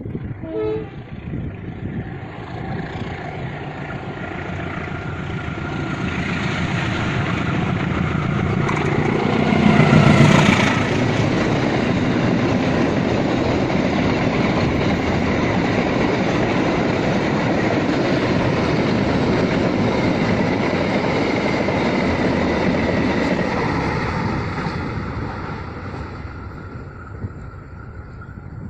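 Freight train passing: a diesel locomotive draws near and is loudest about ten seconds in as it goes by, then a long string of wagons rolls past steadily before the sound fades away near the end.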